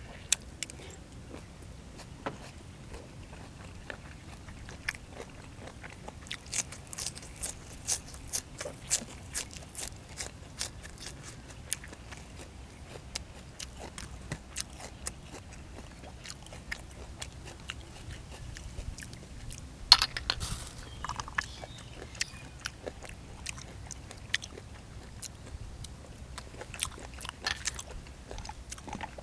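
A person eating close to the microphone, biting and chewing a meal of boiled field snails with raw vegetables: frequent sharp crunches and clicks, with the loudest crack about twenty seconds in.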